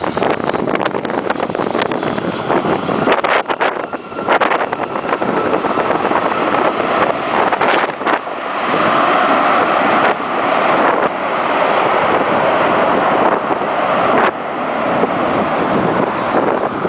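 The four jet engines of an Airbus A340-300 airliner running loud and steady during its landing, becoming steadier and stronger about halfway through. Wind gusts buffet the microphone, mostly in the first half.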